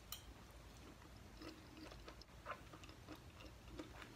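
Faint close-up chewing of a bite of orange tofu, with soft, irregular wet mouth clicks.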